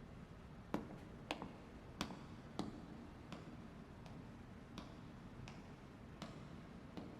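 Footsteps of hard-soled shoes on a hard floor, a slow, steady walk of about ten even steps, faint and heard through the show's soundtrack.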